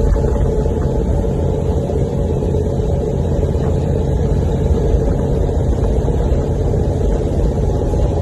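Pickup truck engine and exhaust running steadily at highway speed: a loud, even drone with road noise and no revving.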